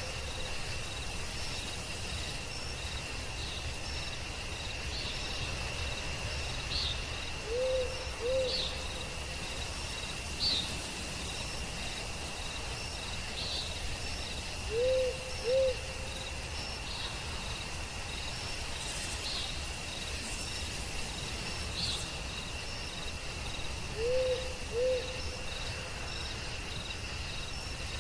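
Night forest ambience: an owl gives paired hoots three times, about seven seconds apart, over a steady high drone of crickets and other insects, with scattered short high bird chirps.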